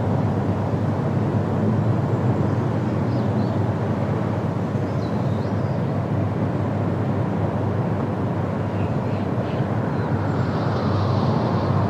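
Steady low wind rumble, with a few faint, brief high bird chirps over it.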